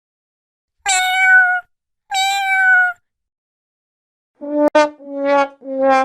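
Cats meowing: two drawn-out, high-pitched meows in the first half, then, after a pause, three shorter, lower-pitched meows in quick succession, with a sharp click over the first of them.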